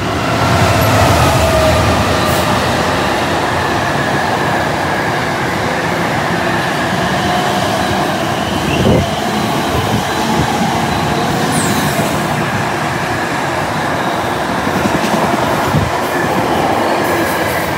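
A train running through the station without stopping: a loud, sustained rumble of wheels on rail that swells at the start and then holds steady, with a few brief knocks along the way.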